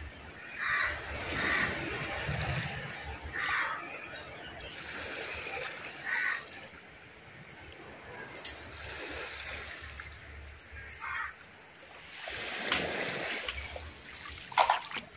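Water splashing and sloshing, with crows cawing now and then.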